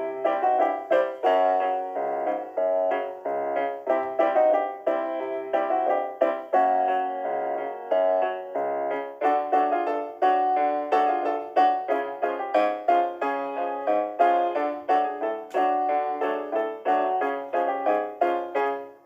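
Background music: a piano or electric-piano piece playing a quick run of notes.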